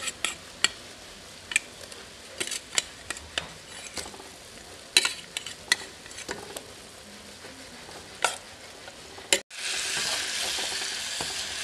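Steel ladle scraping and knocking against a bowl as fried chicken pieces are pushed out into a pan of masala, a scattered series of clicks and knocks. About nine and a half seconds in, after a brief cut, a steady frying sizzle from the chicken and masala in the pan.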